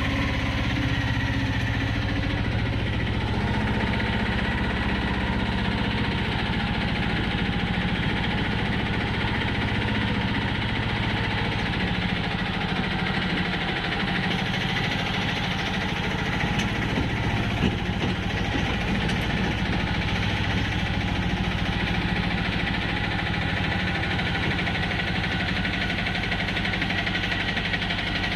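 Passenger train running, heard from on board: a steady low rumble and running noise that goes on without a break.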